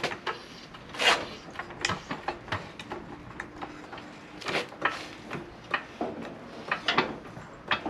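A jack being pumped to raise an engine: irregular clicks and clunks of metal parts, the loudest about a second in and again around four and a half seconds.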